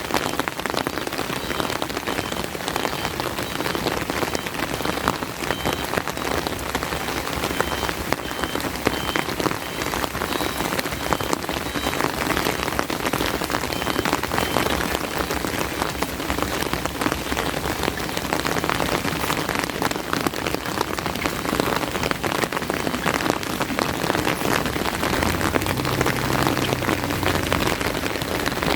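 Steady rain falling, a dense patter of many drops striking surfaces. A low rumble comes in near the end.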